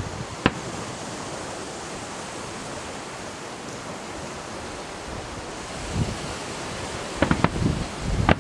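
Fireworks display: a single sharp bang about half a second in, then a steady rushing background, then a quick run of bangs and cracks near the end.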